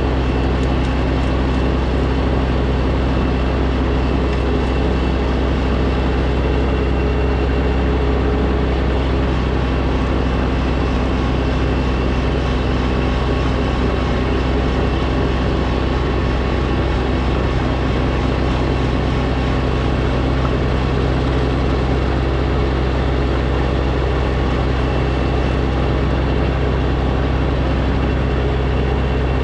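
Snowblower engine running steadily at constant speed.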